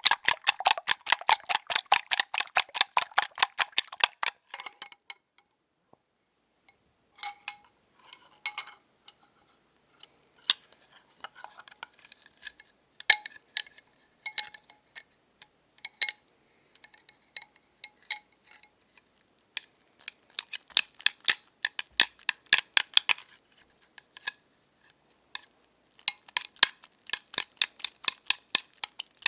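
Eggs being beaten with a whisk in a bowl: fast runs of light clinks, about ten a second, with a slight ring from the bowl. The strokes thin out to scattered single clinks in the middle stretch, then speed up again in bursts near the end.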